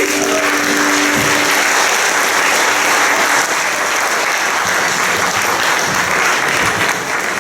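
Audience applauding at the end of an acoustic guitar piece, with the last low guitar note dying away under the clapping over the first three seconds or so.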